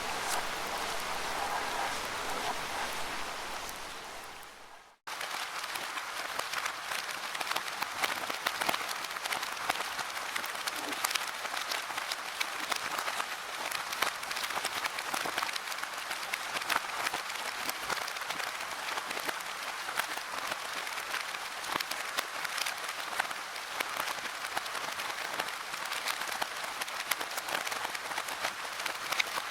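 Rain falling in a forest: steady dense pattering of drops. It fades out to silence about five seconds in, then comes straight back in as a denser, crackling patter.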